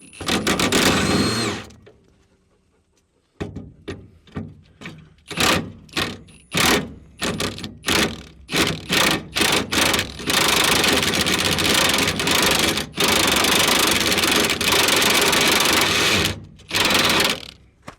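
A power impact wrench working a stubborn nut on a Ford F-150's spare tire hanger. It spins up with a rising whine, then fires in a string of short trigger bursts, then hammers steadily for about six seconds with a brief pause partway through, and ends with one last short burst.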